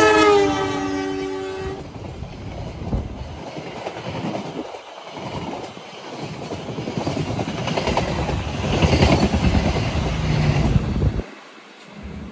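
A KAI CC 201 diesel-electric locomotive's multi-tone horn sounding and cutting off just under two seconds in. Then the steady rush and clatter of the passenger coaches' wheels on the rails as the train passes close by, louder in the later seconds, and dropping away suddenly near the end.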